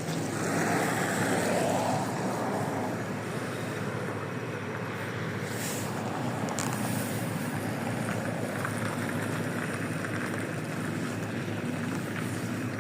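Steady cabin noise inside a LiAZ 5292.65 city bus, its Yuchai diesel engine running under the rumble of the ride. A louder hissing swell comes about a second in.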